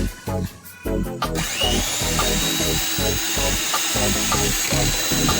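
An electric hand mixer switches on about a second in, whines briefly up to speed, then runs steadily as it beats cake batter, over background music.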